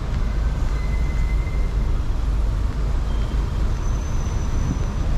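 Steady street traffic rumble from passing cars and buses, with a few faint thin high tones.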